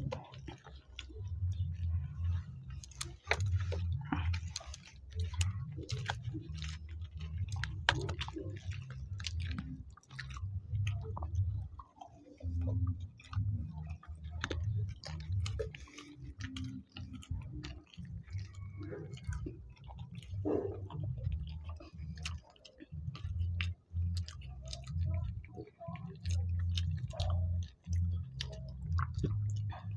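Two people chewing and smacking their lips as they eat luchi with aloo dum by hand, with many short wet clicks and smacks throughout.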